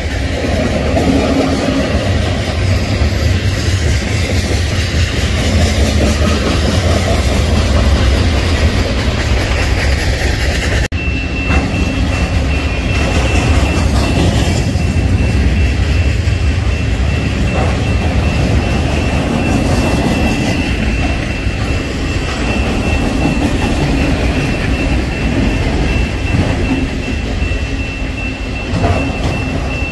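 Steel wheels of a freight train's cars rolling steadily along the rails: covered hoppers first, then, after a cut about 11 seconds in, autorack cars passing close. A thin, steady high-pitched tone runs through the autorack part.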